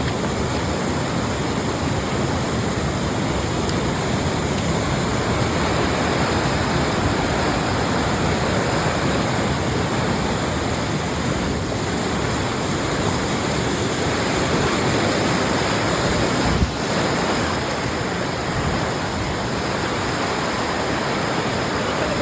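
Waterfall and rushing water, a steady loud roar of falling and flowing water. One brief knock about three-quarters of the way through.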